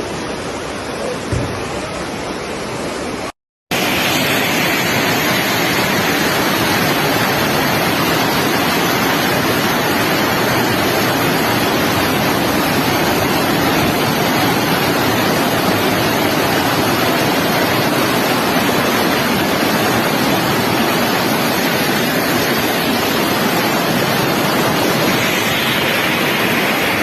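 Floodwater rushing: a loud, steady noise of moving water with no break in it. A short dropout about three and a half seconds in marks a cut from a quieter stretch of similar noise.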